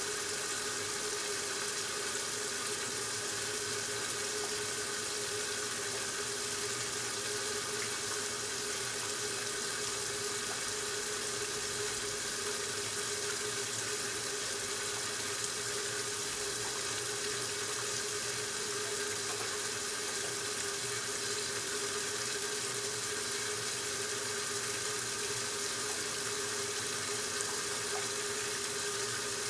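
1969 Westinghouse washing machine partway through its normal cycle, with a steady rush of water running into the tub over a steady hum.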